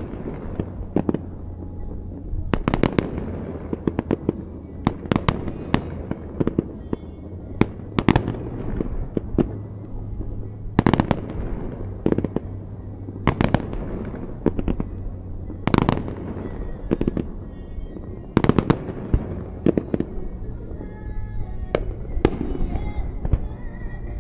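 Fireworks display with shells bursting one after another in sharp bangs, every second or two and sometimes in quick clusters, over background music.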